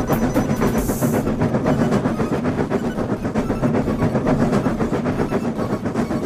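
Train sound effect in an animation: a train running with a steady, rhythmic clatter of wheels over the rails, and a short hiss about a second in.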